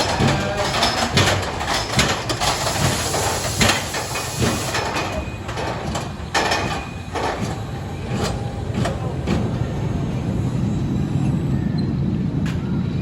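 Storm Chaser roller coaster's train and track: a run of sharp clacks and knocks for the first several seconds, settling into a steady low rumble.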